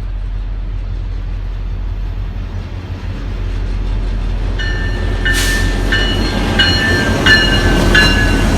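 Diesel freight locomotives approaching, their engines rumbling louder and louder. About halfway in, a locomotive bell starts ringing about twice a second.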